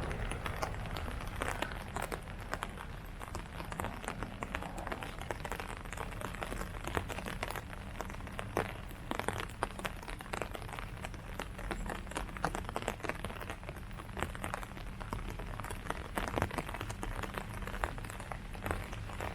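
Rain falling on leaves: a steady patter with many separate drops tapping, over a low steady rumble.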